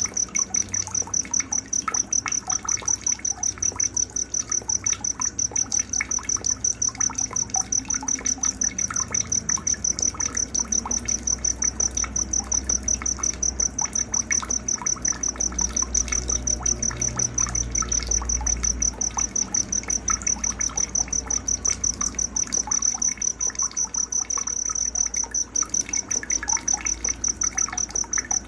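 Night-time nature ambience: a cricket chirping in a fast, even pulse at a high pitch throughout, with scattered faint chirps and calls beneath it.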